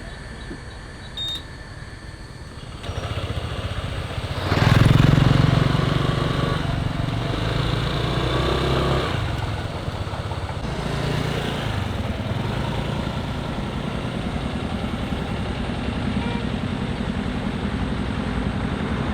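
Motorbike engine running, getting louder about three seconds in and loudest around four to five seconds in, then running steadily.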